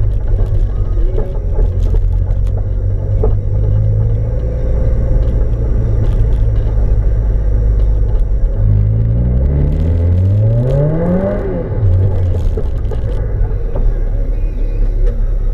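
Mazda MX-5's four-cylinder engine, heard from inside the cabin, running at low revs. Partway through it revs up in a rising pull lasting about three seconds, then drops back to a steady low drone.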